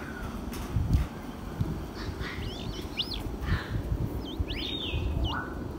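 Birds chirping: a run of short, high calls from about two seconds in, over a low rumbling background.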